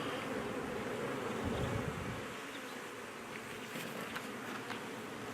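Honey bees buzzing in a steady hum around an opened hive, with a few faint clicks of frames being handled.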